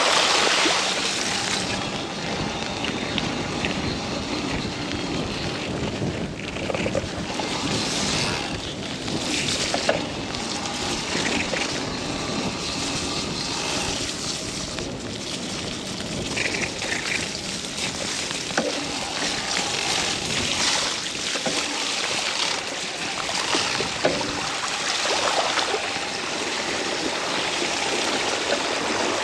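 Steady rushing noise of a mountain bike riding down a wet, muddy trail: wind on the microphone and tyres through mud and water, with a few scattered knocks.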